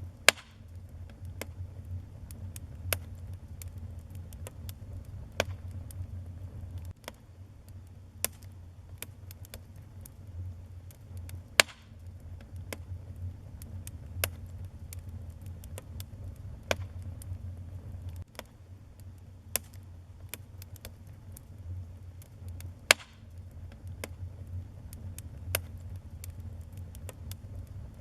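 Wood fire burning in a fireplace, crackling with irregular sharp pops over a steady low rumble of the flames; three louder snaps stand out, near the start, about halfway through and near the end.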